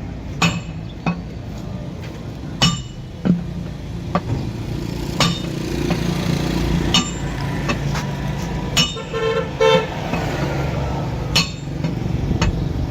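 An engine running steadily under a string of sharp knocks, about a dozen at irregular intervals. About nine seconds in come two short horn-like toots.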